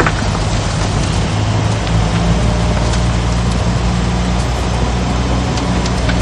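Heavy diesel engine of earthmoving machinery running steadily at a constant pitch, with a few faint clicks over it.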